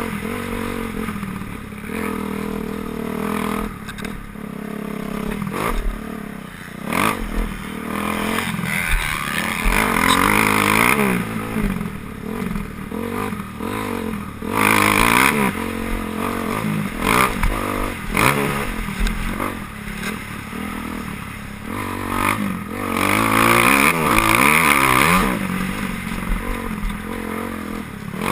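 Several motocross bikes racing, their engines revving up and down in overlapping rising and falling pitches as they pass. The engines swell louder about ten, fifteen and twenty-three seconds in.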